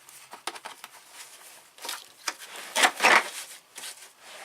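Tool kit and its case being handled: a run of light clicks, rattles and rubbing, with a louder clatter about three seconds in.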